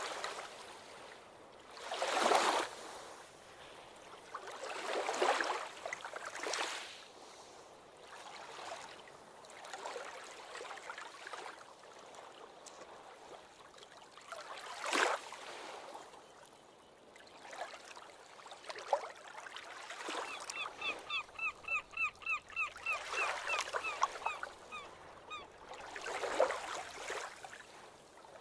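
Ocean waves washing in, in surges every few seconds. About two-thirds of the way in, a bird gives a quick run of short repeated calls, about five a second, lasting some five seconds.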